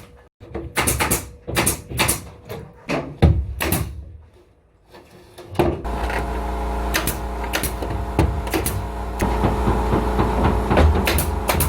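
A quick, irregular series of sharp clacks, a brief lull, then about halfway through a motor starts up and runs with a steady hum while more clacks land over it.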